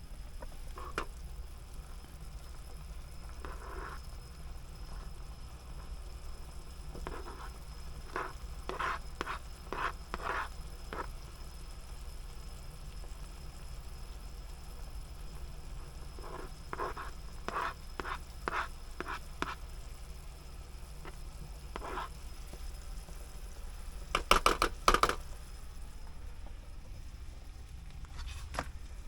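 Cooking in a pan: a utensil scraping and stirring food in several short clusters, the loudest run about 24 seconds in, over a steady low hum.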